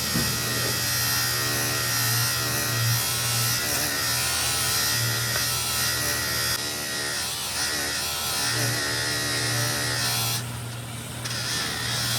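An electric motor of workshop machinery running with a steady buzzing hum. The level dips briefly near the end.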